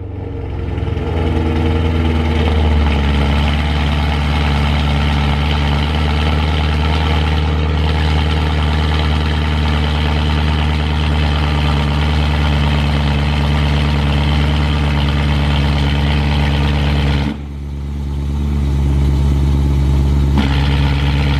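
BMW E92 M3's 4.0-litre S65 V8 idling loudly just after start-up through a straight-piped Valvemaster catback exhaust with no cats or resonators. About 17 seconds in the sound drops suddenly, then builds back up over the next few seconds.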